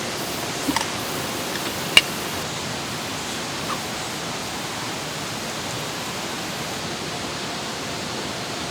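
Steady rush of a mountain valley stream, with a sharp click about two seconds in.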